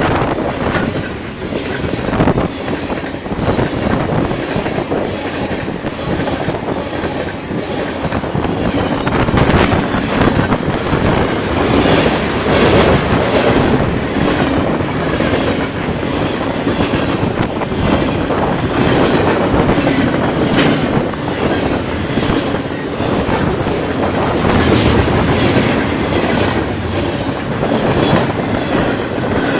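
CN freight train rolling past, its cars' wheels clicking steadily over the rail joints with a continuous rumble.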